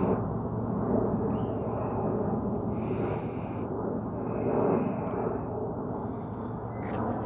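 A few short, high bird chirps in the middle, over a steady low rumbling noise.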